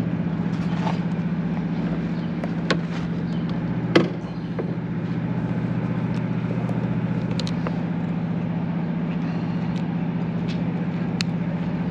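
A steady low mechanical hum, like an idling engine or machine, with a few sharp clicks and knocks; the loudest knock comes about four seconds in.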